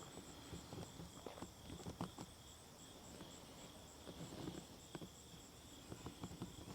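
Faint nature ambience: insects chirping in a steady, high, pulsing trill, with soft scattered clicks and rustles.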